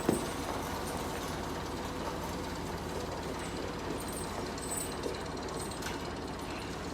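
Diesel tractor engine running steadily, with a single sharp knock just after the start.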